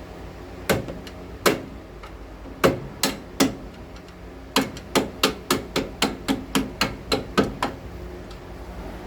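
Hammer blows on the Saturn Vue's metal front-suspension parts. First a few spaced strikes, then a quick run of about a dozen at three to four a second.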